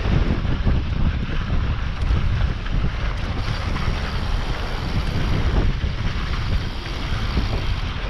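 Wind buffeting the microphone during a fast mountain-bike descent, with the bike's tyres and frame rumbling and rattling over a rough dirt trail in a steady stream of small knocks.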